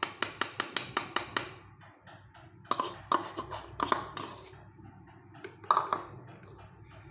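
A rapid run of light taps on a bowl, about seven a second for a second and a half, then several scattered knocks: a utensil tapping cocoa powder into cake batter.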